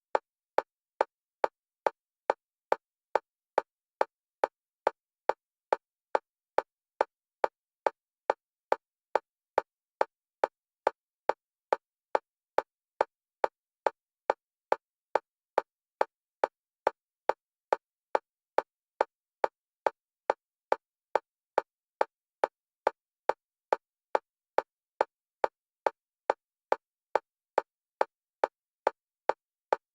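Synthetic metronome clicks at one pitch, evenly spaced at a little over two a second, steady in level throughout. They alternate between the left and right stereo channels, used as bilateral stimulation for EMDR.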